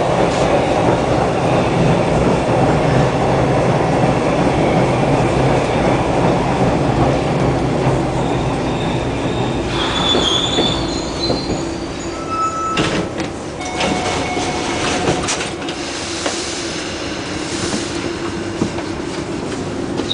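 Hawker Siddeley H4 subway car running along the line, heard from on board: a steady rumble of wheels and running gear, louder in the first half. From about halfway through there are brief wheel squeals and sharp rail clicks.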